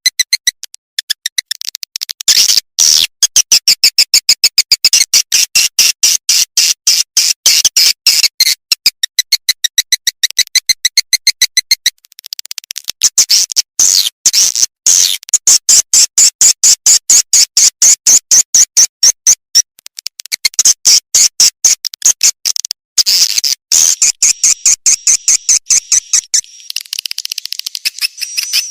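Swiftlet calls: long runs of rapid, high, buzzing chirrups made of fast clicks, pausing briefly twice. This is a swiftlet-house lure call recording, of the kind played to draw swiftlets in to roost and nest.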